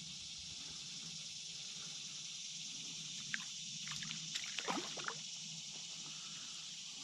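Small water trickles and splashes around a canoe, a cluster of them from about three to five seconds in, over a steady high hiss.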